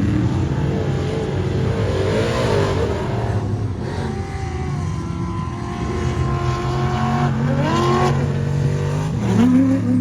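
Prerunner race truck engine running, blipped several times so its pitch swoops up and back down, about two seconds in, around eight seconds and again near the end.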